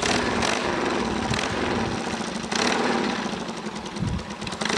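Small motorcycle engine running with a rapid, even pulse, getting louder briefly at the start and again about halfway through.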